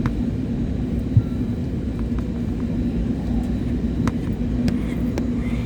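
Airbus A320neo cabin noise: the steady drone of its Pratt & Whitney PW1127G geared-turbofan engines and airflow heard inside the cabin, with a constant low hum and a few faint clicks.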